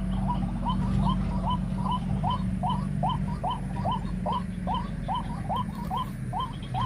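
White-breasted waterhen calls: a fast, very even run of short upward-sliding notes, about two and a half a second, over a steady low hum.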